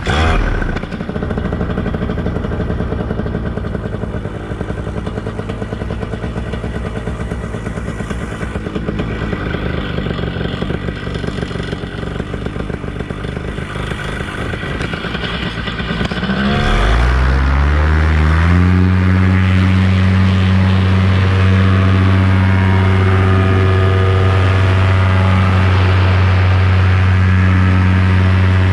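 Paramotor engine and propeller running at low throttle, then revved up smoothly over about two seconds past the middle and held at a steady high power.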